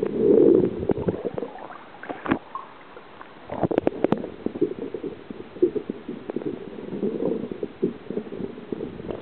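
Water sloshing and gurgling against a kayak hull in uneven surges, with a quick cluster of sharp knocks about four seconds in.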